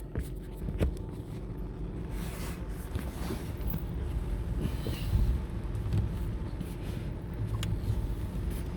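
Car running, heard from inside the cabin as a steady low rumble with a faint steady hum and a few light clicks.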